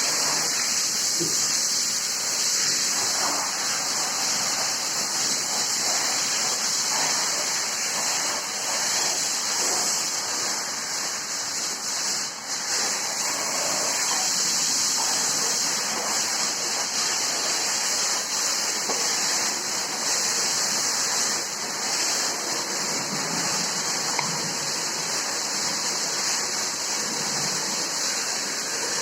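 Steady rush of running water as the farm's cows are washed down, an even hiss that continues without a break.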